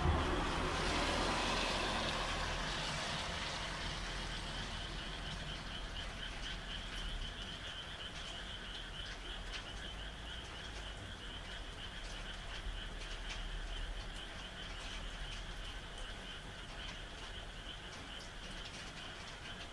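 A chorus of frogs calling in a fast, steady pulsing trill, over rain hiss with scattered drop ticks. The rain is loudest at the start and eases over the first few seconds.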